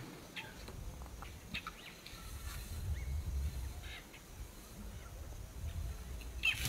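Birds calling in the bush: a scatter of short, high chirps, the sharpest near the end, over a low rumbling noise that swells about halfway through and again near the end.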